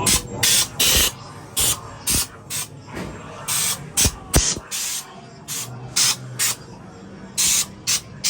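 Haunted-house compressed-air blast effects: more than a dozen short hissing puffs at uneven intervals, with two sharp clicks about four seconds in.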